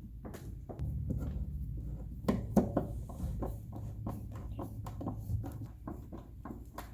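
Plastic toy dollhouse parts being handled and fitted together: a run of irregular light clicks and knocks, the loudest about two and a half seconds in, over a low steady hum.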